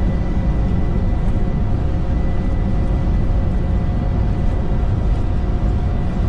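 Boeing 747-200 flight deck during the takeoff roll, between 80 knots and V1, with the four engines at takeoff thrust. There is a loud, steady low rumble with a few steady hums through it and a thin high whine held at one pitch.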